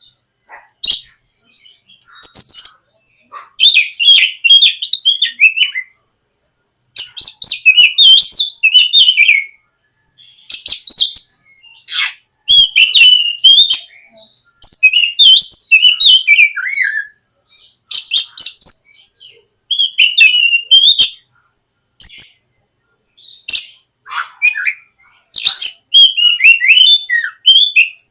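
Oriental magpie-robin (kacer) singing in the loose, flowing 'ngeplong' style: rapid phrases of varied whistles, chirps and warbles, each lasting a second or a few, broken by short pauses.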